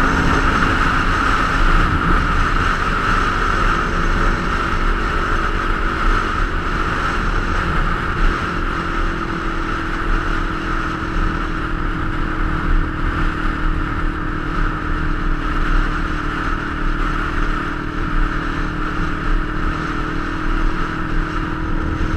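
Kawasaki Ninja 250 parallel-twin engine running at a steady cruise, with heavy wind rumble on a camera mounted on the bike.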